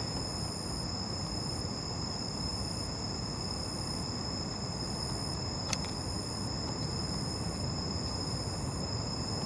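Steady night-time insect chirring, heard as several high, unbroken tones over a low, even hiss, with a single faint click a little after the middle.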